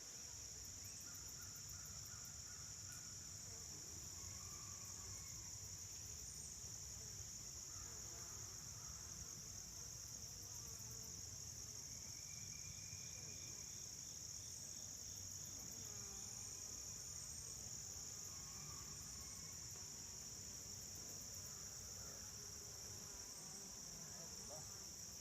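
Honey bees buzzing as they fly in and out of a hive in the rain. Faint passing buzzes rise and fall in pitch over a steady high-pitched insect chorus.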